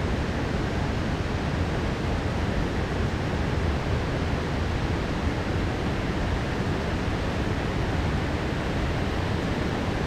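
Heavy rain falling in a steady downpour, an even rushing hiss with no thunderclap or other sudden sound.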